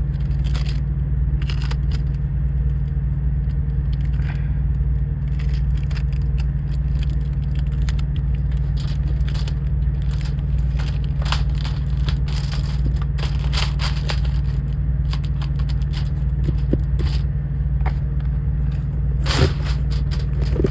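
Steady low drone of the semi truck's diesel engine heard inside the cab, with scattered crackles of aluminum foil being handled and pressed over a window.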